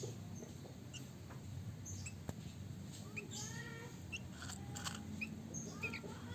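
Small caged birds chirping: scattered short, high chirps, with a quick run of falling notes about three seconds in.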